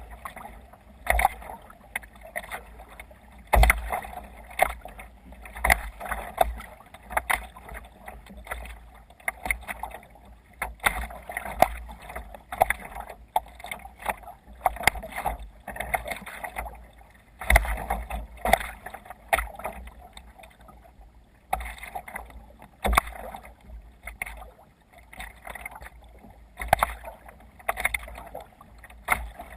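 Sea water splashing and slapping against a sea kayak's hull as it sails through waves. The splashes come irregularly, about one every second or two, with low thumps underneath.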